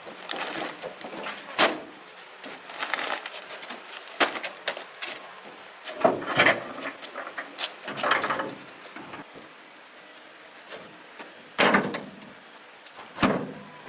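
Irregular knocks, clatters and scraping of objects being handled, with a few sharp knocks among them.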